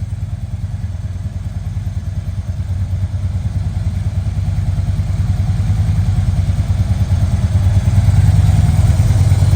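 Harley-Davidson Street Glide V-twin running through S&S headers and Screamin' Eagle mufflers, a deep, rapid pulsing exhaust note that grows louder from about halfway through.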